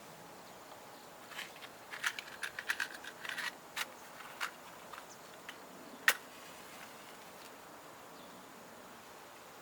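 Light clicks and clinks of camp gear being handled: a cluster of small knocks, then a few scattered ones and a single sharper click about six seconds in, over a faint steady hiss.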